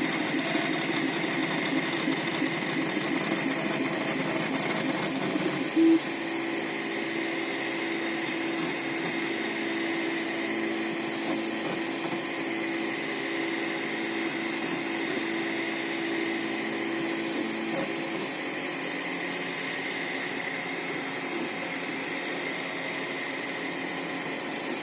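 Anet A8 3D printer running a print: its stepper motors, driven by TMC2208 drivers, make a steady whine with tones that shift as it moves, and one tone holds for about twelve seconds. A short, louder sound comes about six seconds in. This is the strange noise that keeps up throughout printing, which the owner has not traced to the extruder or the Z axis.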